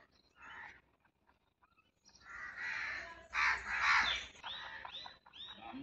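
Birds calling: a loud run of calls starts about two seconds in and lasts about three seconds, ending in a few short, arched calls.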